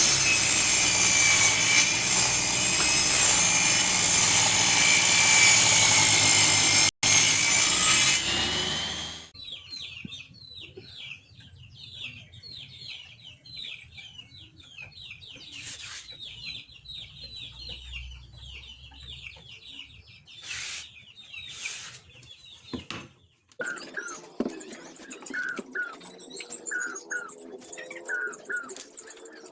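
Homemade table saw running and sawing through wood, loud and steady, stopping abruptly about nine seconds in. Birds then chirp quickly and repeatedly in the background.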